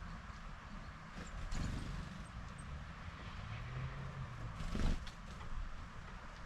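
Ambience at a garden bird feeder: a steady low rumble, two sharp knocks or taps, and a few faint, short, high bird peeps.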